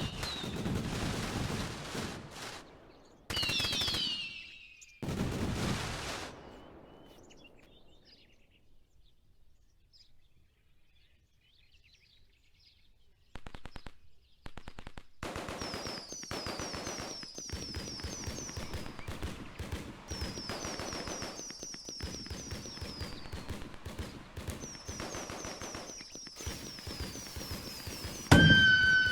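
Fireworks going off in rapid crackling volleys of many small pops, with rows of short high whistling chirps over them. There is a lull of several seconds in the middle, then a long run of crackling, and a louder burst with a sustained whistle near the end.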